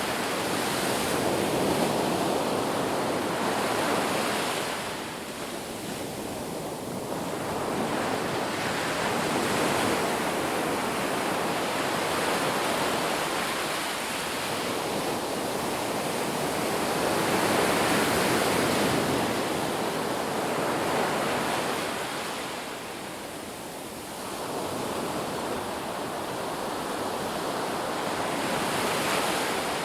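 Ocean surf washing on a beach, waves swelling and receding every several seconds in a steady rush of water noise.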